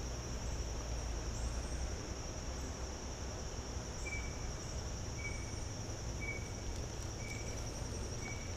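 A steady, high-pitched insect trill, such as crickets, runs unbroken. From about halfway through, a short chirp lower in pitch repeats about once a second.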